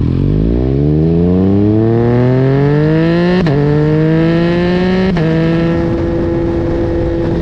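Yamaha MT-09 three-cylinder engine through a full carbon Akrapovic exhaust, accelerating hard. The engine note climbs steadily, and two quick upshifts each give a brief sharp crack and a small drop in pitch. After the second shift the note holds steady.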